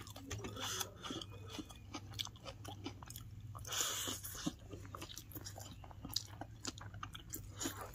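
A person chewing food close to the microphone: many small wet mouth clicks and smacks over a low steady hum, with a short louder noisy sound about four seconds in.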